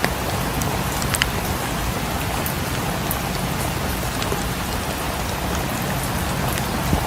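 Steady rain falling, with a few sharp crackles and pops from a wood fire, the clearest about a second in.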